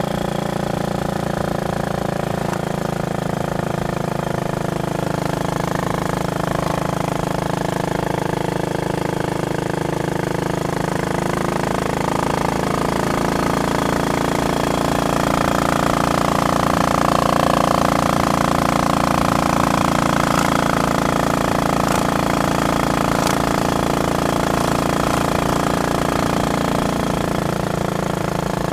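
Royal Enfield Bullet Machismo 500's single-cylinder four-stroke engine running steadily under way. It grows a little louder about halfway through.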